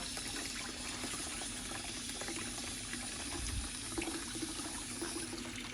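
Water running steadily through a removed car radiator as it is flushed out with a hose, rinsing old coolant and sediment from the core.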